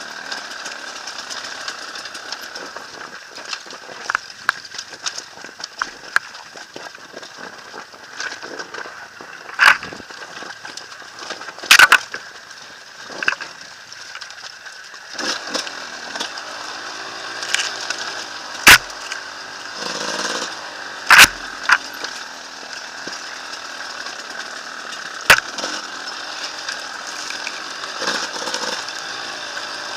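Enduro dirt bike engine running under load with its revs rising and falling, punctuated by sharp knocks and thumps several times.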